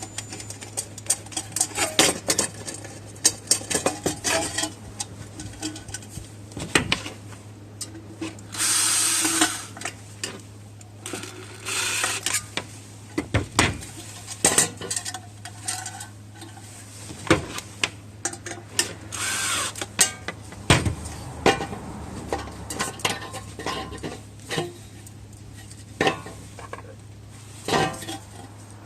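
Metal parts of a homemade mini wood-burning stove clinking and knocking as they are handled, with a few rushing noises of about a second each, over a steady low hum.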